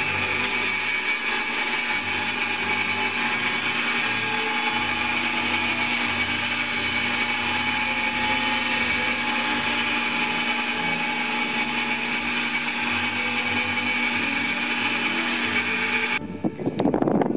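The Stretham Old Engine's beam engine turning under its electric demonstration drive: a steady mechanical running noise with a constant motor and gearing whine. It cuts off suddenly near the end.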